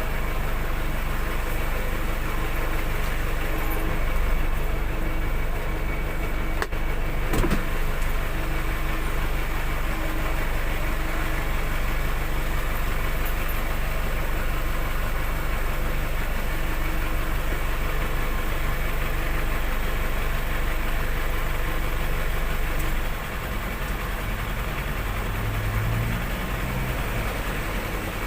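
A vehicle engine running steadily, with a brief knock about seven seconds in. The sound drops a little in level about 23 seconds in.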